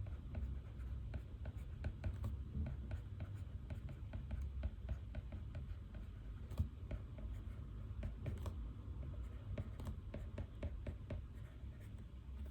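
Pen writing on paper: quick, irregular small scratches and taps, over a steady low room hum.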